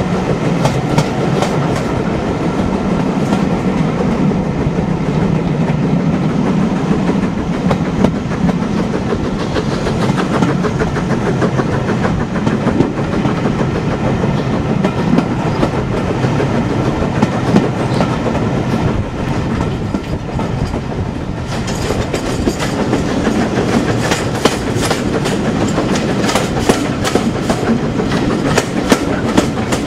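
Steam-hauled passenger train running at speed, heard from an open carriage window: the carriage wheels clicking and clattering steadily over the rail joints. The clatter turns sharper and brighter about two-thirds of the way through.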